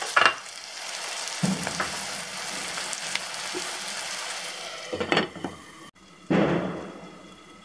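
Onions and masala paste sizzling in hot ghee in a kadai, stirred with a wooden spatula, with a few knocks of the spatula against the pan. The sizzling cuts out briefly near the end, then starts again loudly and fades.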